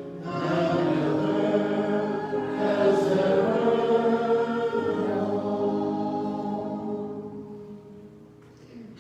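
Voices singing a hymn in sustained chords. The music ends on a long held chord that fades away over the last few seconds.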